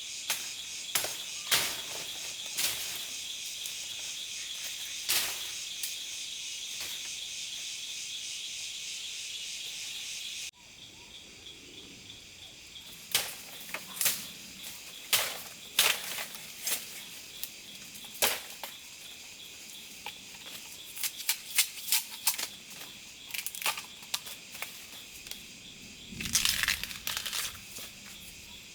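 A steady, shrill chorus of forest insects, with many sharp clicks, snaps and crackles scattered through it, like feet and hands working through dry leaves and twigs. The chorus drops suddenly about ten seconds in and goes on more quietly.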